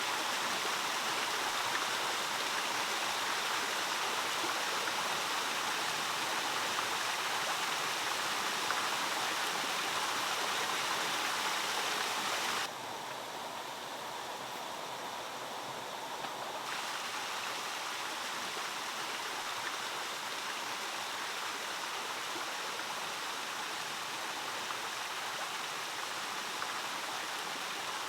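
Water pouring steadily down a handmade stone waterfall, a continuous rush. About 13 seconds in it becomes a little quieter and duller, and brightens again a few seconds later.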